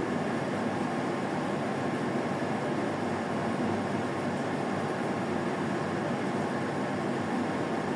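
Steady, unchanging noise with no distinct knocks, steps or other events.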